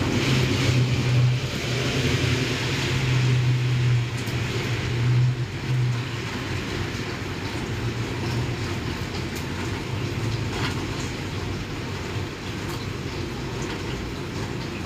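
Steady rain with a low rumble beneath it that weakens after about six seconds.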